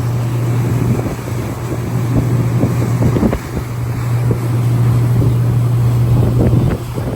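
Wind gusting on the microphone, with a steady low hum running underneath.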